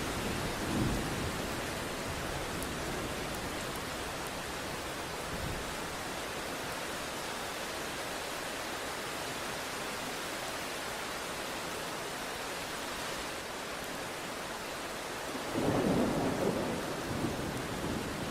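Steady rain hissing, with thunder rumbling: a short low rumble about a second in and a longer, louder roll starting near the end.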